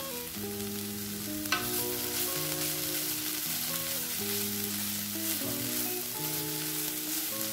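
Paneer, carrot and pea filling sizzling in oil in a non-stick pan while a wooden spatula stirs and scrapes it, with a short knock of the spatula about a second and a half in. Soft background music with held notes plays underneath.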